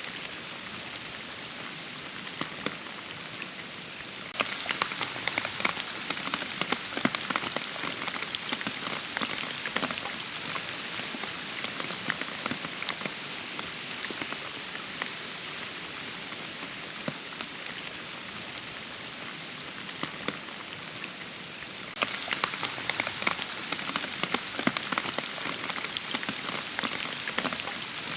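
Steady rain, with dense close drops pattering over a constant hiss. It turns abruptly heavier about four seconds in, eases back through the middle, and turns abruptly heavier again about two-thirds of the way through.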